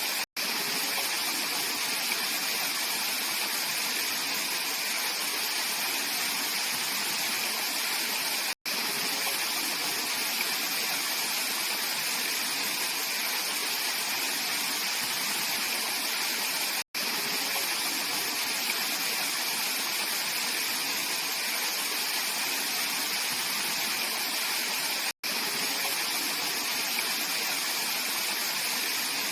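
Clear mountain valley stream flowing over rocks, a steady, even rush of water. It is broken by a momentary total dropout about every eight seconds.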